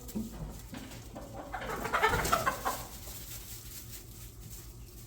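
Domestic poultry calling: a short flurry of calls about two seconds in, over a low steady hum.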